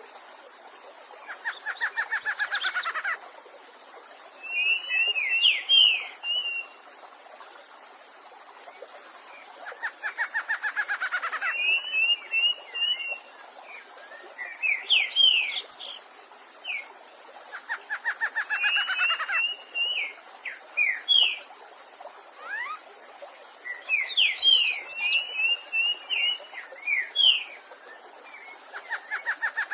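A songbird singing the same song about every eight seconds: each song opens with a rapid trill and goes on into quick whistled notes and chips. Under it runs the steady rush of a stream.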